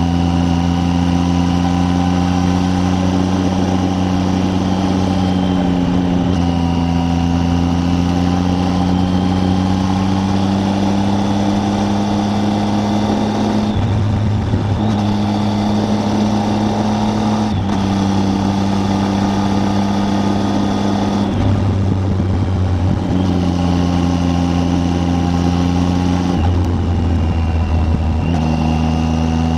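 Triumph Tiger 800's three-cylinder engine running under way on the road. Its note climbs slowly, and several times it breaks off and settles at a new pitch, as at gear or throttle changes.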